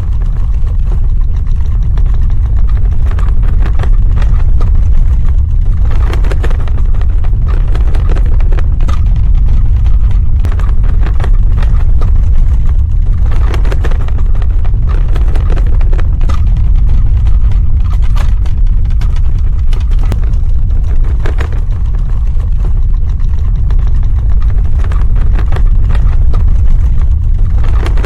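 Earthquake sound effect: a loud, steady, deep rumble with scattered crackling and rattling on top.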